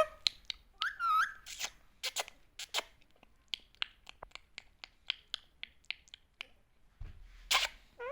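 Ringneck parakeet giving a short gliding whistle, then a long run of sharp, irregular clicks, a few a second, and a brief harsh rasp near the end.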